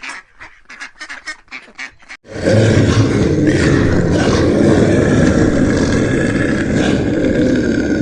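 Ducks or geese calling in quick, repeated honks. About two seconds in, a much louder, dense, continuous sound cuts in and holds steady.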